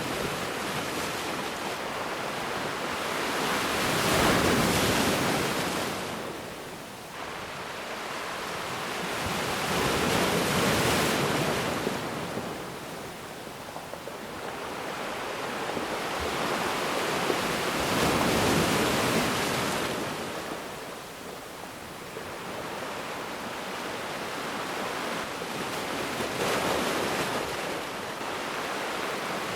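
Ocean waves breaking on a beach, the surf rising and falling in slow swells, one every six to eight seconds.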